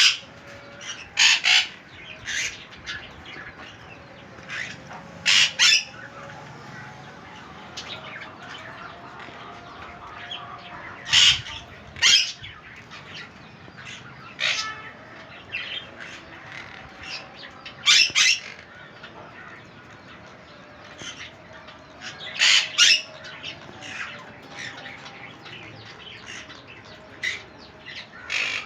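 Parrots squawking: short, harsh calls every few seconds, some in quick pairs, over fainter chattering from other birds.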